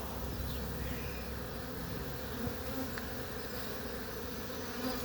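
Swarm of honeybees buzzing, a steady many-winged drone close around the box they are being gathered into.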